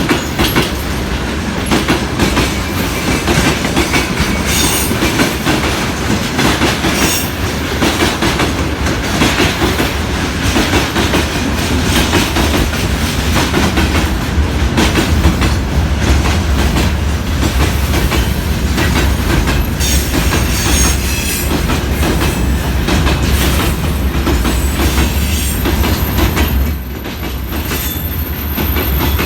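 Freight train hauled by a VL80S electric locomotive rolling past, wagon wheels clacking steadily over the rail joints over a low rumble. A thin high whine appears near the end.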